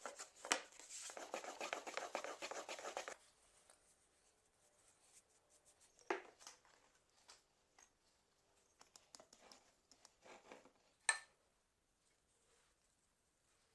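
Kitchen food-preparation handling sounds: a few seconds of quick, fine scratching or rustling strokes, then scattered light taps and clicks, with a sharper knock about eleven seconds in.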